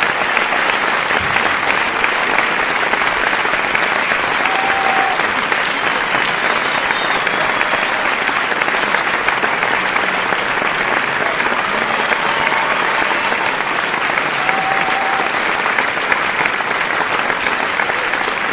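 A crowd applauding: steady, dense clapping from many hands, with a few brief faint whistles or calls on top.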